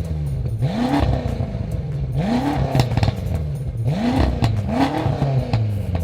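BMW M6 F06 twin-turbo V8 with a custom exhaust, revved in quick blips over its idle: about four short rises in revs, each dropping straight back down.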